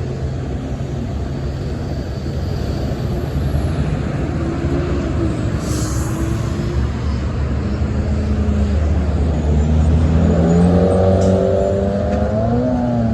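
Road vehicle engine running under steady road noise. The engine note wavers, then rises and grows a little louder about ten seconds in.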